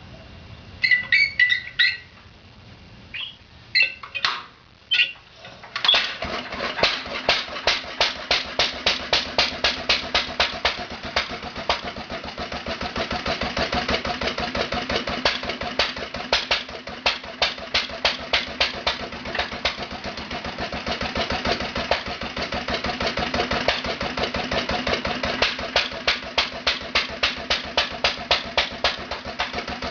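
Clattering and a few sharp clicks as the flywheel of a 1947 International Harvester LB single-cylinder engine is flipped over. The engine catches about six seconds in and runs on with a steady, even beat of firing strokes.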